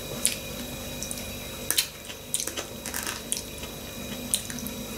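A person chewing a forkful of potato, with about eight short clicks and smacks scattered through, over a faint steady hum.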